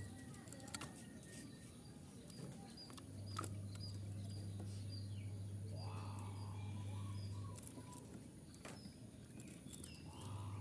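Zebra dove (perkutut) cooing: a rising note followed by a run of short notes about the middle. Small birds chirp high throughout, and a low hum comes and goes.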